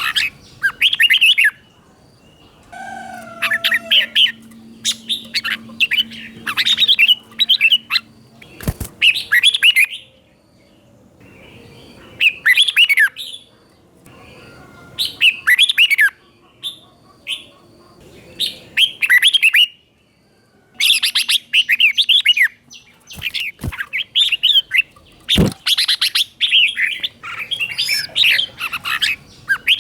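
Red-whiskered bulbul singing its doubled song: quick, bright warbling phrases repeated again and again with short pauses between them. A few sharp knocks sound near the middle and the end.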